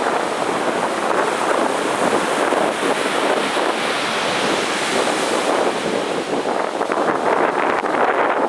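Heavy sea surf breaking and washing up a beach: a steady, dense rush of waves, with a spell of crackling fizz near the end.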